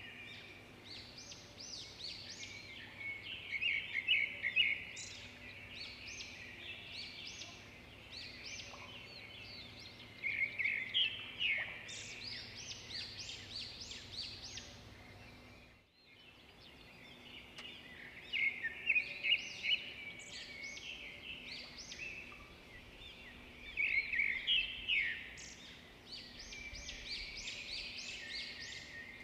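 Birds chirping and singing in short, repeated bursts of quick high notes, with a brief dropout about halfway through.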